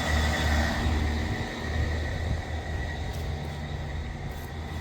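Outdoor heat pump units running: a steady low compressor hum under fan and air noise, with a faint high whine that fades out about halfway through.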